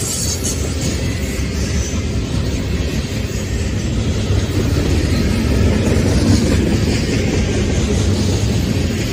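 CSX manifest freight train's high-sided open-top cars rolling past close by: a steady, loud rumble of steel wheels on rail that swells a little past the middle.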